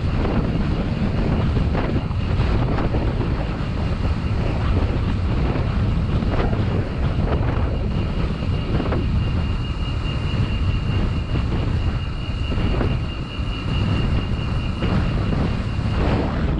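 Wind buffeting the microphone of a camera riding along on a moving bicycle: a steady, deep rumble, with a faint thin high whine from about halfway through until just before the end.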